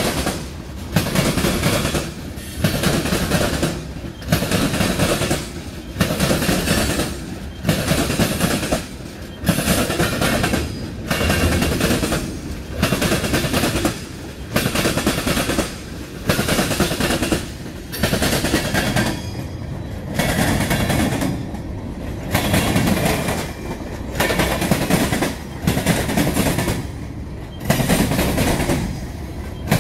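Freight train cars (open hoppers and tank cars) rolling past close by, their wheels clattering in a steady rhythm that repeats about every one and a half to two seconds.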